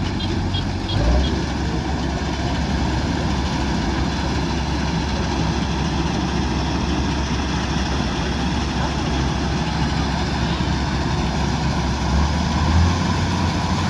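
Kubota DC-105X combine harvester's diesel engine and machinery running steadily with a strong low drone, surging briefly about a second in and again near the end.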